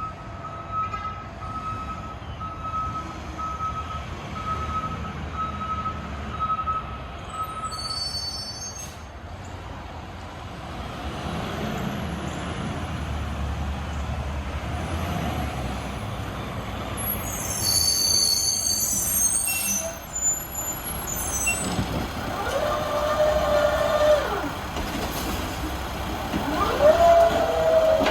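Heil RevAmp side-loading garbage truck with its diesel running and a Boivin Evolution arm that works without hydraulics. A warning beeper sounds about one and a half times a second for the first eight seconds. Air-brake hissing and squeals come up about two-thirds of the way in, and the arm's drive whines up and down twice near the end as it cycles a bin.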